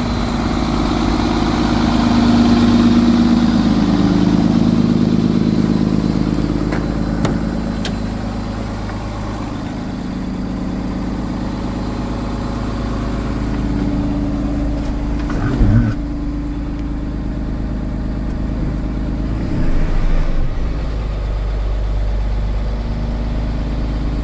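International MV box truck's engine idling steadily, running a little louder for a few seconds early on, with two short rises in engine sound, about 15 and 20 seconds in.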